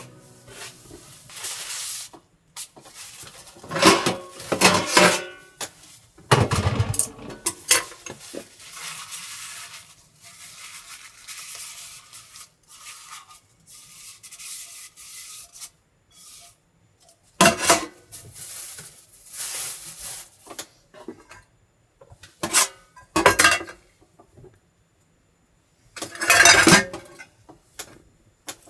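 Tableware and cooking utensils being handled during a tabletop grill meal: clinks and scrapes against dishes and a pan, coming in separate bursts with short pauses between.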